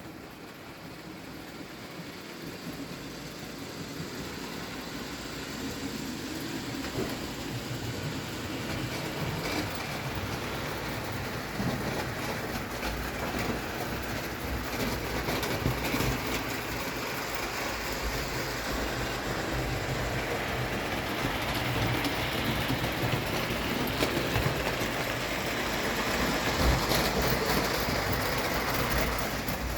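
Bing tinplate 0 gauge live-steam toy locomotive running on its track: steady steam hiss with scattered clicks from the wheels on the rails, growing steadily louder.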